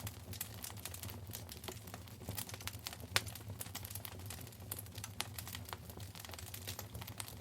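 Wood fire crackling in a fireplace: a dense, irregular run of small snaps and pops, with one louder pop about three seconds in, over a low steady rumble.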